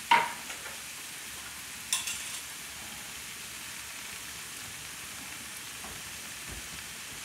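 Food sizzling steadily as it pan-fries in frying pans on a gas range, with a sharp clink right at the start and a lighter one about two seconds in.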